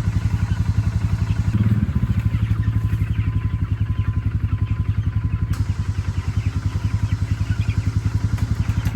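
Small engine running at an even idle-like chug, about nine beats a second.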